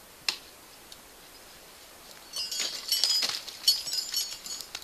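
Ice-climbing tools and crampons striking frozen waterfall ice, knocking off chips that clink and tinkle like glass. A single knock comes about a third of a second in, then a quick run of strikes and tinkling from a little past two seconds.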